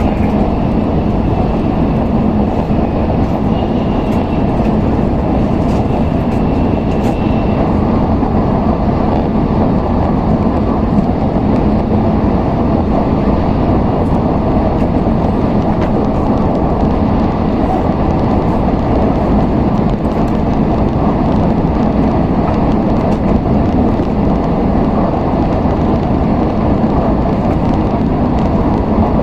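Steady running noise of an N700S Shinkansen at speed, heard inside the passenger car: a continuous low rumble of wheels, track and air. A faint high tone sits over it for the first seven seconds or so.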